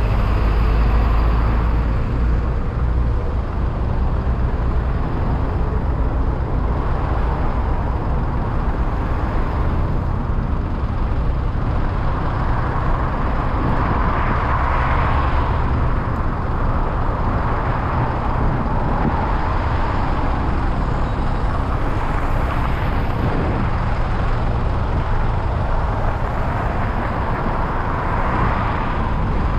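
Road traffic: a steady low rumble of vehicles with cars and trucks passing, their tyre and engine noise swelling and fading several times.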